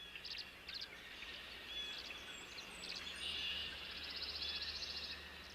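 Faint bird chirps and short calls, with a rapid, even trill starting a little over three seconds in and lasting nearly two seconds.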